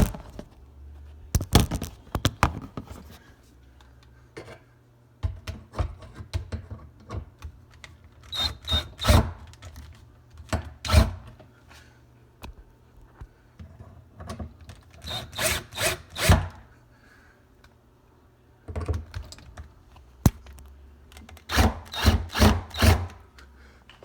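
Clicks, knocks and rubbing of a screwdriver and screws as screws are fastened back into a dishwasher, in about six short spells with quiet gaps between.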